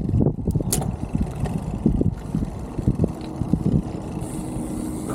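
Strong wind buffeting the microphone: an uneven low rumble that rises and falls in gusts.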